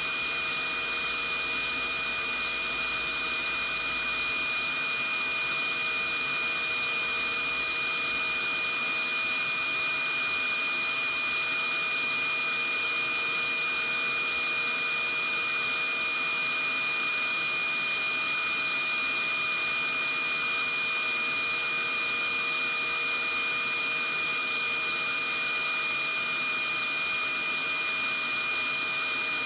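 Vacuum cleaner running continuously: a steady, unchanging hiss with a high whine, looped as white noise for lulling a baby to sleep.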